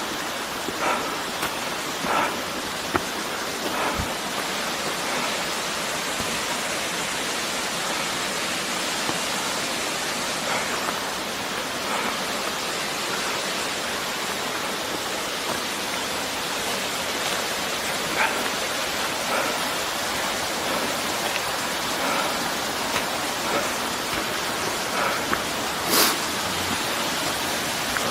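Steady rushing of a waterfall and its mountain stream, an even hiss of falling water, with a few faint taps and one sharp click near the end.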